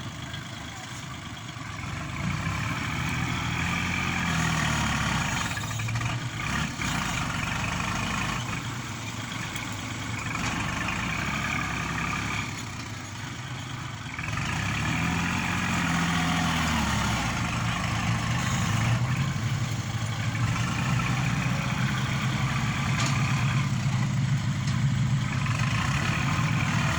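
Diesel engine of heavy machinery working under changing load. It revs up and settles back several times, and gets louder about two seconds in and again about fifteen seconds in.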